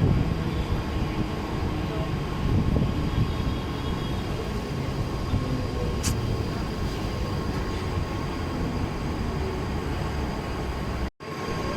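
Passenger train running, a steady rumble with a faint steady whine above it, broken by a single click about six seconds in; the sound drops out for a moment near the end.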